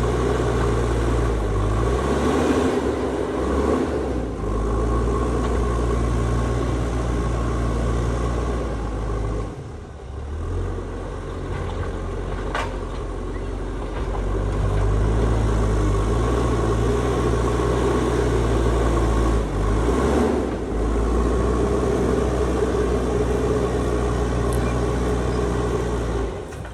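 JCB backhoe loader's diesel engine running steadily under working load, its note shifting and dipping briefly a few times as the load changes.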